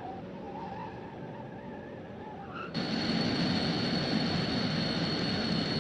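Film sound effects of vehicle engines: a steady engine hum, then from about three seconds in a louder rushing engine noise with a high steady whine, like a jet.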